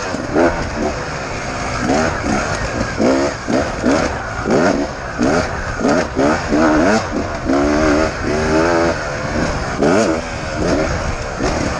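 Beta 250RR Racing two-stroke enduro motorcycle engine revving hard under load, its pitch climbing again and again as the rider works the throttle and gears. Around three-quarters of the way through it holds a steadier note briefly before rising again.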